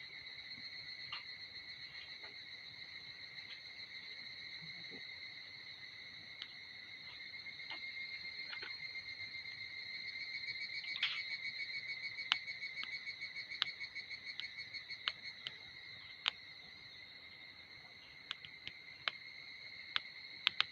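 Insects trilling steadily in a high, continuous chorus that pulses faster and louder for a few seconds midway, with scattered sharp clicks throughout.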